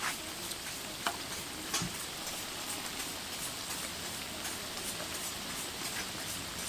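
Hot oil sizzling steadily as donut dough deep-fries, with a few light clicks.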